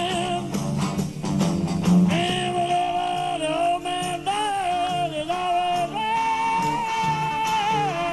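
Live rock band playing an instrumental passage. A high lead line of long held notes slides and bends above the band, holding one higher note for about two seconds near the end.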